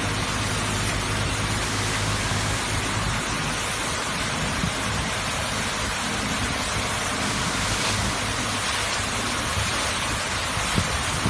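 Rollover truck wash machine spraying a truck with high-pressure water, a loud steady hiss of water jets over a steady low hum.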